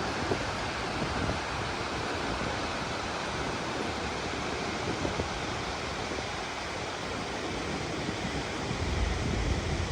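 Steady rushing noise with no distinct events. Near the end a low wind rumble on the microphone builds, with uneven gusty bumps.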